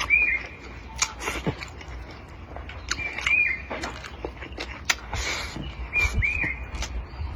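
A bird repeats the same short chirping call about every three seconds, over close eating sounds: chewing and sharp clicks.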